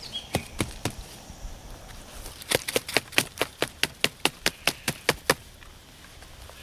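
Knife chopping on a cutting board in a quick, even rhythm of about four or five strokes a second: a few strokes, a pause, then a longer run that stops about a second before the end.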